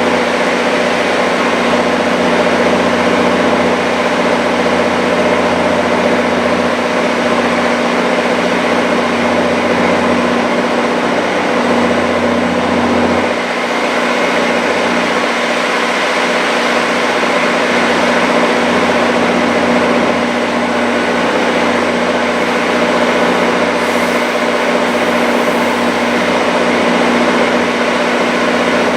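A train's engine running steadily and loud, a constant drone with a steady hum over it, dipping briefly about halfway through.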